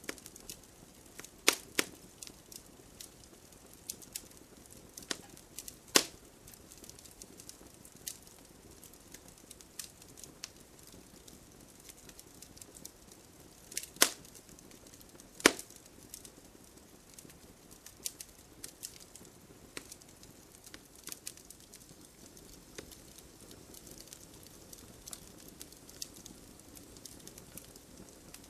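Wood campfire crackling: a steady low hiss with frequent irregular snaps, and a handful of much louder pops scattered through.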